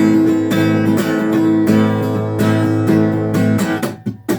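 Acoustic guitar being strummed, chords ringing. The strumming breaks off for a moment near the end.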